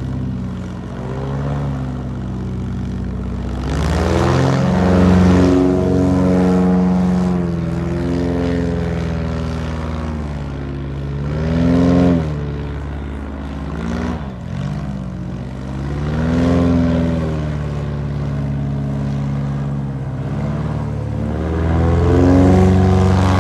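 Airboat engine and air propeller running loud, the pitch rising and falling several times as the engine revs up and eases off.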